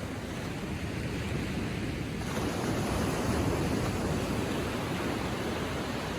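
Small Atlantic Ocean waves washing onto the shore: a steady wash of surf that swells about two seconds in, peaks, and slowly eases.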